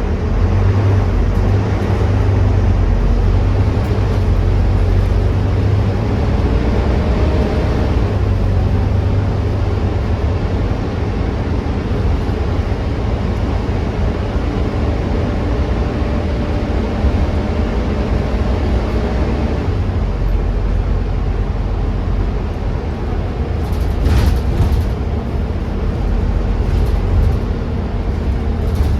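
Volvo B9TL double-decker bus's six-cylinder diesel engine running while the bus is under way, heard from on board as a steady, loud low drone. A few short clicks sound near the end.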